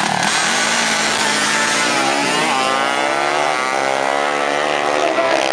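Drag-racing motorcycle engine revving while held at the start line, its pitch wavering up and down with a couple of dips partway through.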